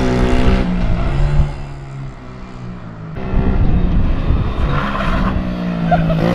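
Mini bike engine revving under throttle as it is ridden. It eases off about a second and a half in and picks back up about three seconds in.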